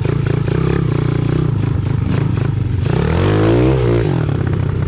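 Pit bike engine running steadily, then revving up and dropping back about three seconds in.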